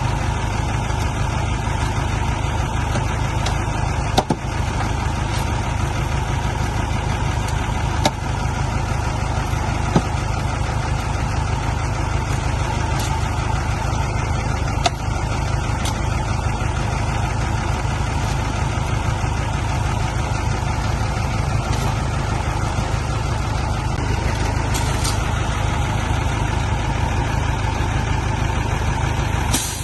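Heavy diesel engine running steadily at low revs, with a few sharp knocks spread through it.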